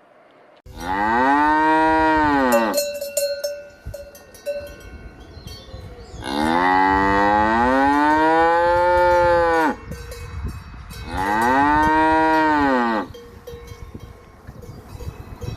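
A cow mooing three times in long, drawn-out calls that rise and then fall in pitch; the middle moo is the longest. Between the first two moos a bell clinks and rings faintly.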